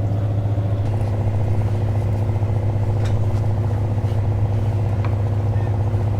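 An engine running steadily at idle, a constant low drone with a stack of even tones above it. A few faint taps sound over it.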